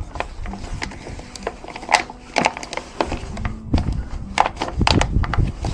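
Irregular sharp knocks and cracks of wood, about a dozen in a few seconds: firewood being handled and broken for a campfire.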